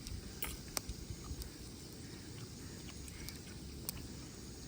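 Someone eating crispy grilled pork belly, with a few short sharp crunches over a low steady rumble.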